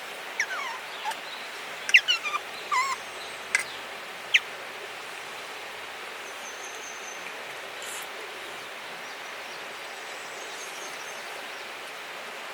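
Asian small-clawed otter giving a run of short, falling, squeaky chirps, about seven in the first four seconds, then stopping. A steady faint hiss of background noise continues underneath.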